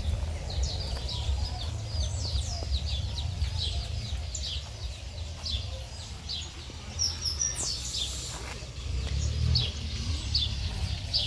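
Birds chirping: many short, quick chirps with a falling pitch, over a steady low rumble.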